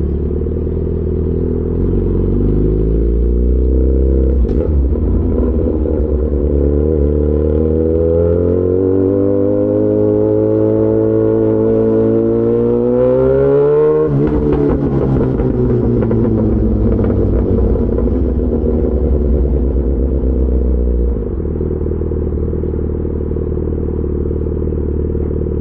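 Yamaha XJ6 S's inline-four through an SC-Project aftermarket exhaust, accelerating with its pitch climbing steadily for about twelve seconds, then dropping abruptly at a shift about 14 seconds in. It runs on at lower revs and drops in level when the throttle closes about 21 seconds in.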